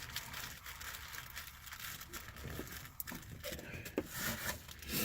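Bagged pipe tobacco samples and their packaging being handled: quiet crinkling and rustling with a few light clicks and taps.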